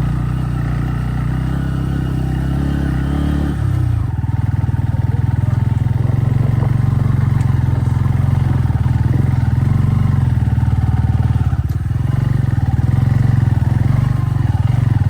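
Motorcycle engine labouring up a steep dirt road in second gear, which it barely pulls. The engine note changes about four seconds in and runs a little louder after that.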